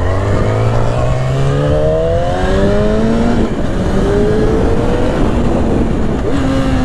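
Yamaha R6 inline-four sport bike accelerating hard through the gears, its engine note climbing in pitch and dropping back at each of several upshifts, with wind rushing over the microphone.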